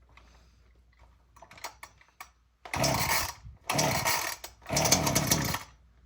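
Ryobi RY3716 two-stroke chainsaw being pull-started on full choke from cold: three hard pulls of the recoil starter cord about a second apart, the engine turning over with each pull.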